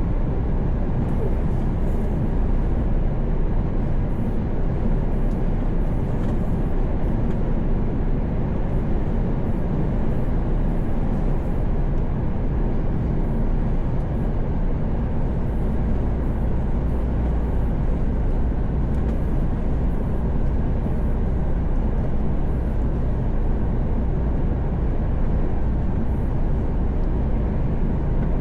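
Steady drone of a Mercedes Actros truck's engine and tyre noise heard inside the cab while cruising at highway speed, unchanging throughout.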